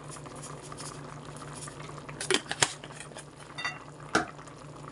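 Tomato-and-soy sauce simmering in a pot with a soft bubbling hiss over a steady low hum, broken by a few sharp clinks against the pot, the loudest about two and a half seconds and four seconds in.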